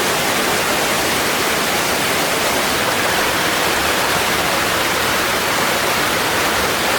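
Steady rushing of flowing water, like a stream running over rocks.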